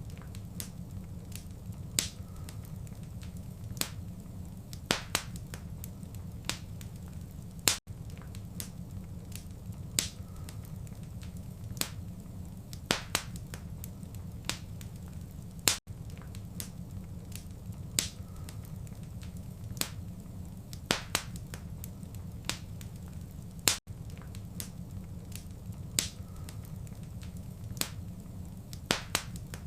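Wood fire crackling in a fireplace: sharp, irregular pops and snaps over a low steady rumble. A brief dropout comes about every eight seconds as the short recording loops.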